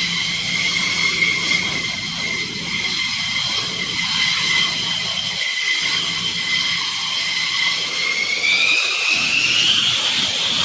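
F-15E Strike Eagle's jet engines running with a high turbine whine that is steady, then rises in pitch over the last few seconds as the engines spool up.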